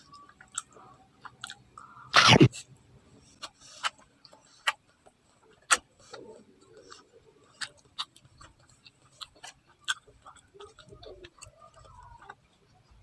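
Close-miked chewing and mouth sounds of a person eating street food: irregular wet clicks and smacks, with one louder noisy burst about two seconds in.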